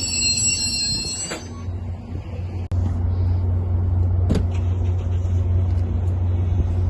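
Metra commuter train arriving: high wheel and brake squeal dies away about a second in, leaving the train's steady low rumble. A sharp click comes a little past halfway.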